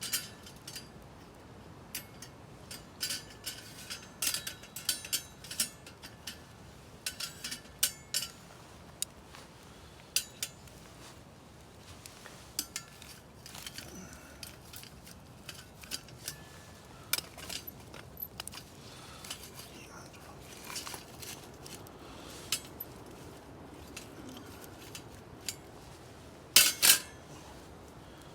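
Metal utensils and cookware clinking, tapping and scraping in irregular short knocks, some with a brief ring. The loudest clatter comes near the end.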